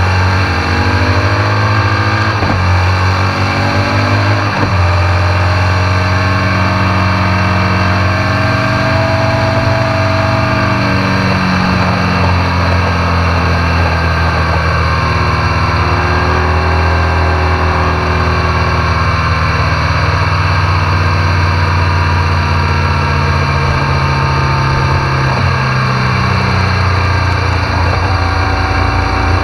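BMW R1200 GS Adventure's boxer twin engine running at road speed, its pitch rising and falling a little with the throttle, over a steady rush of wind and road noise.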